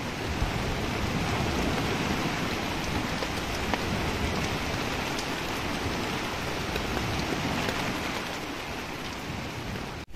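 Steady rain falling on a tent: an even hiss with a few louder single drops. It eases off a little near the end.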